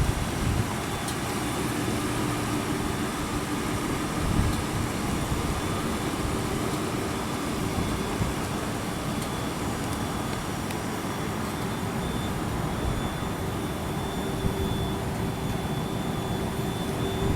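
A vehicle engine running steadily, a low rumble with a faint constant whine above it.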